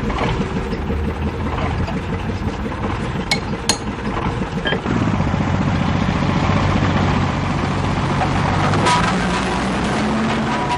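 An engine running, with a few sharp clicks; about five seconds in, a steadier, deeper drone sets in.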